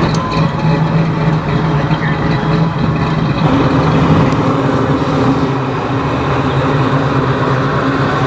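A car engine running steadily close by, its note shifting slightly about three and a half seconds in.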